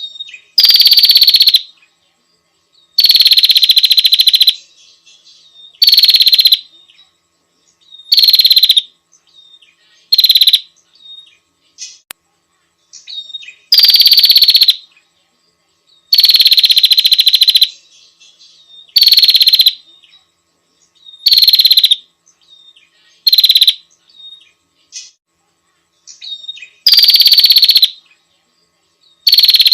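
Female prinia (prenjak) giving its rapid, rattling chatter in about a dozen loud bursts of half a second to a second and a half each, with irregular gaps. It is a lure call meant to draw in a male.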